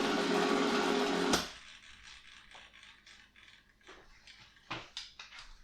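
The 1/18-scale Spitfire Mk1A model's simulated aero-engine sound running steadily, then cutting off sharply about a second and a half in. After that come a few faint, scattered clicks.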